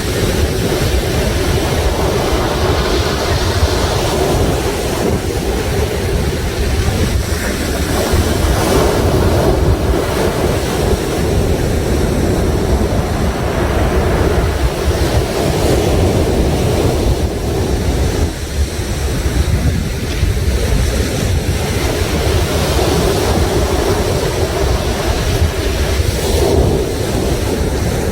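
Sea waves washing onto the shore in a continuous rush, with wind rumbling on the microphone.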